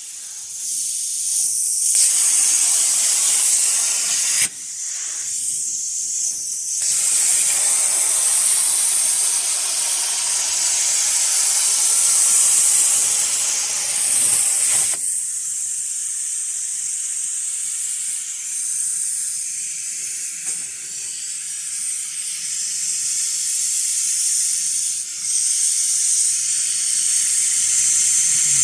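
CNC plasma cutting torch hissing as it cuts metal. There are short breaks near the start and about four and a half seconds in, and the hiss turns thinner and higher from about halfway through.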